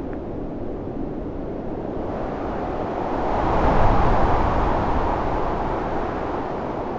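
Storm wind blowing in gusts, with one gust swelling about a third of the way in, peaking in the middle and easing off.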